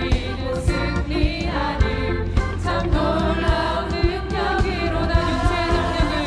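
Church choir singing a praise song over band accompaniment, with a strong bass and a steady drum beat.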